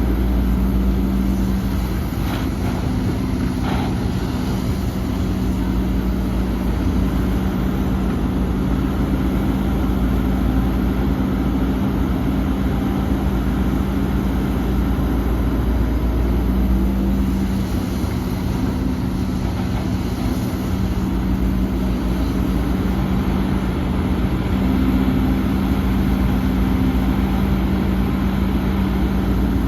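Heavy diesel engine of earthmoving machinery running continuously, its low drone shifting slightly in pitch and level as it works.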